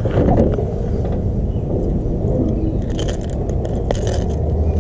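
Steady low rumble, with a few light clicks and clinks about three and four seconds in as a hooked lure is worked free of a small largemouth bass's mouth.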